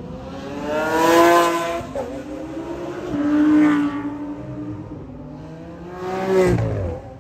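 Supercar engines accelerating hard past the roadside, three loud surges a couple of seconds apart, each rising in pitch. The last is a Lamborghini Aventador SV's V12, and its pitch drops away sharply as it goes by.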